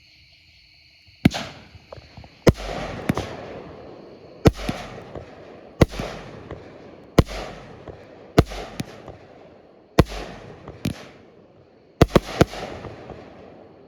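A 200-gram consumer firework cake firing its shots: sharp bangs about every one to one and a half seconds, some in quick pairs and a tight cluster near the end, each trailing off in a rumbling, crackling decay.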